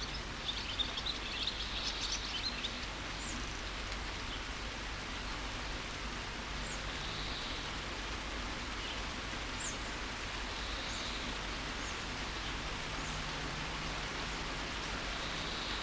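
Steady rain falling, an even hiss, with birds chirping over it: a quick run of chirps in the first two seconds or so, then single short calls every few seconds.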